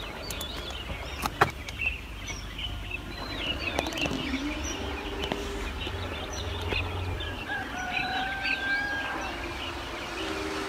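Birds chirping and calling, many short rising and falling notes, with longer drawn-out calls in the second half. A couple of sharp clicks about a second and a half in.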